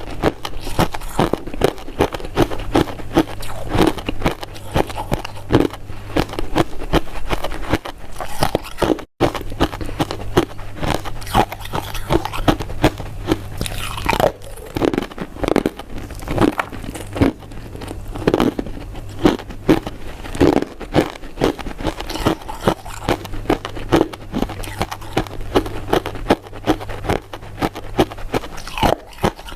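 Close-miked biting and chewing of powder-coated mint sweets: a dense, continuous run of small sticky clicks and smacks. It breaks off for an instant about nine seconds in.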